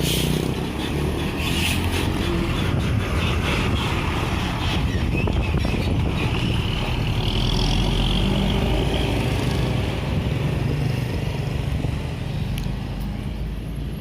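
A motor vehicle running steadily on the move: a continuous low engine hum with road noise.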